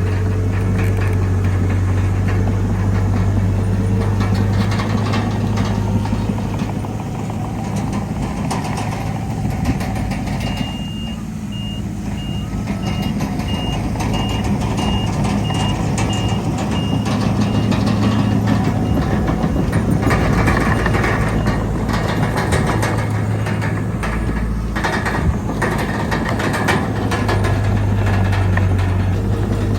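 Heavy diesel earthmoving machinery running steadily, a bulldozer working alongside dump trucks. Partway through, a reversing alarm beeps about twice a second for several seconds, a sign that a machine is backing up.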